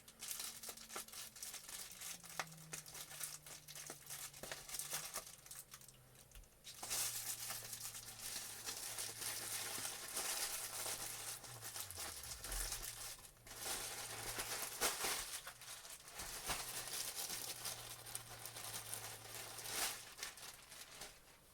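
A mail package being opened by hand: its packaging crinkling and tearing, with many small crackles, almost throughout.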